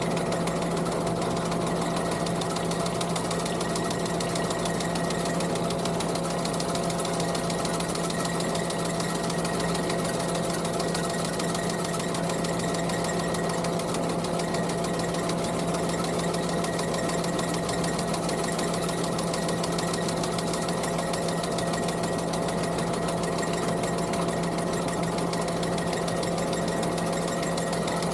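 Skid steer engine running steadily under load, with the fast, even clatter of the sickle bar mower's reciprocating cutter knife.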